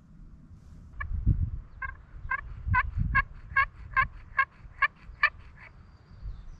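A run of about eleven turkey yelps, evenly spaced at roughly two a second, with gusts of wind buffeting the microphone underneath.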